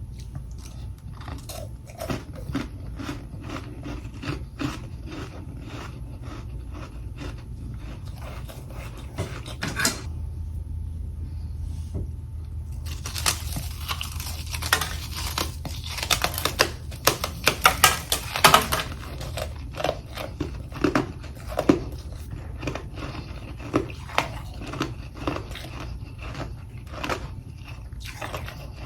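Close-miked biting and chewing of humidifier freezer frost: rapid crisp crunches, a pause of a few seconds, then a dense run of loud crunching that slows into spaced single crunches. A low steady hum runs underneath.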